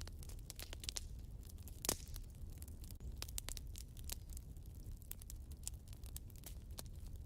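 Wood fire crackling in a fireplace: an irregular scatter of sharp pops and snaps over a low steady rumble, with one louder pop about two seconds in.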